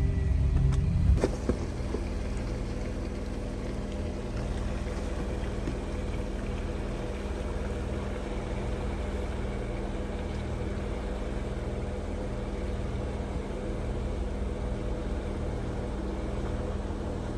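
Jeep Wrangler running at low speed on a rocky off-road trail, a steady low engine and drivetrain rumble with a constant hum. It is louder for about the first second, then settles to an even level.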